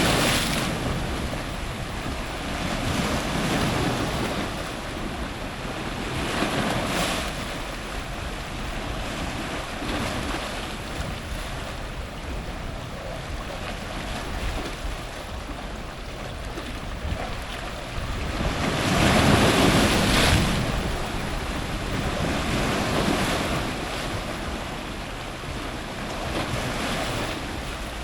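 Strong ocean surf breaking on rocks close to the waterline: a continuous wash of water that swells with each wave every few seconds, the biggest surge about two-thirds of the way through.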